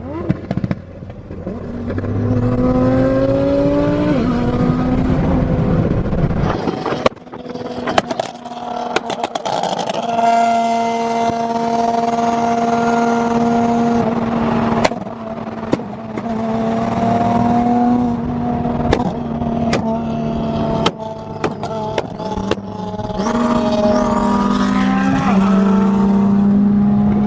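A car engine revving hard, climbing in pitch and then held at high revs for several seconds at a time, easing off and revving up again several times, with tyre noise over it as in donuts.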